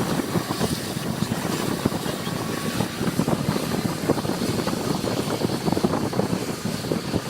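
Aircraft engine noise: a steady, dense rumble of a nearby aircraft running, with a fast flutter to it.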